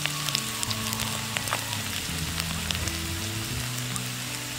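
Chopped ginger sizzling in hot oil with mustard seeds and dried red chillies: a steady frying hiss with scattered small crackles. Soft background music runs underneath.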